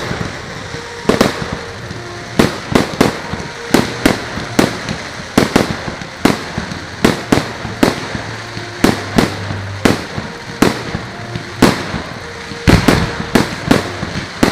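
Fireworks going off all around in quick, irregular succession: dozens of sharp bangs and cracks, a few a second, over a continuous rumble.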